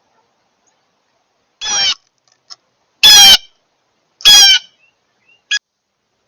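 A bird calling close by: three loud, harsh calls about a second and a half apart, each slightly falling in pitch, then a short fainter note near the end.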